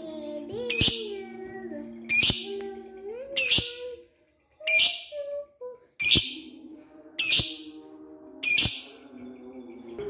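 Lovebird giving short, shrill, high-pitched calls, about seven of them at roughly one every second and a bit, over fainter lower warbling tones.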